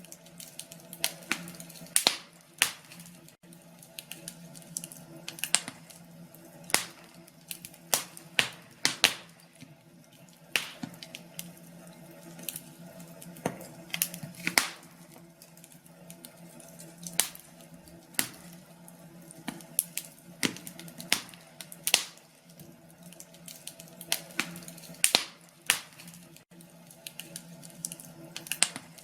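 Wood fire crackling in a fireplace: irregular sharp pops and snaps, about one or two a second, over a faint steady low hum.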